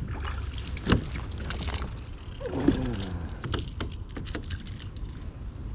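Knocks and clicks of handling on a kayak over a steady low rumble of wind on the microphone, with a sharp knock about a second in and a short falling voice-like sound midway.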